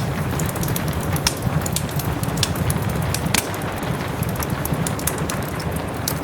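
Wood fire crackling in a fireplace, irregular sharp pops over a steady rush, with soft rain falling behind it.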